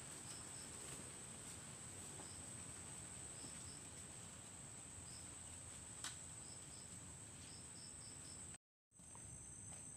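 Insects trilling in a faint, steady, high-pitched drone, with short chirps in small clusters over it. Near the end the sound cuts out for a moment and returns with a second high drone just below the first.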